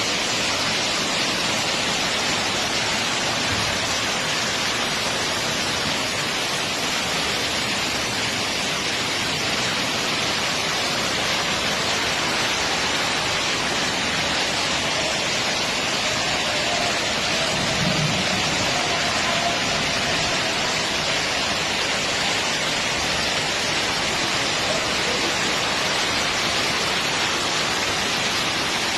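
Steady, unbroken rushing noise of water, with no distinct events.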